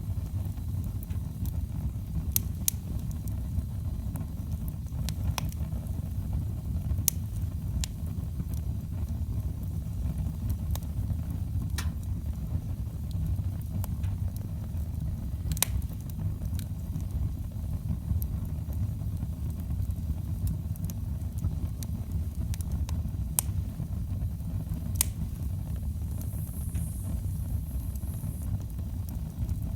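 Wood fire burning in a fireplace: a steady low rumble of the flames with scattered sharp crackles and pops. A brief faint high hiss comes near the end.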